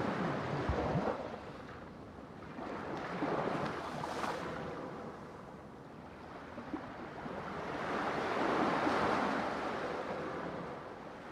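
Ocean waves breaking and washing ashore, the surf swelling and fading in three surges, the last and longest near the end.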